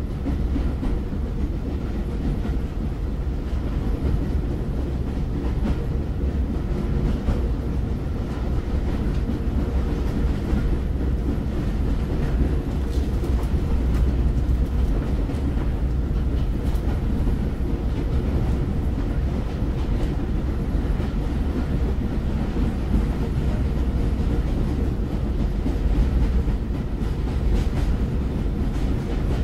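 Moving train's steady deep rumble, with faint rail clicks now and then.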